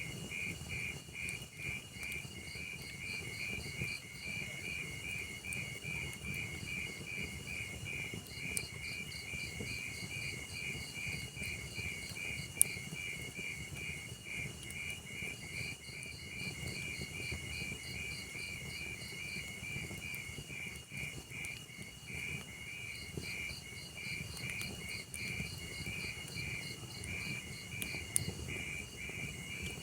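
Insect chirping in a steady rapid pulse over the low rumble of a burning log fire, with a few sharp crackling pops from the fire, the loudest just under halfway through.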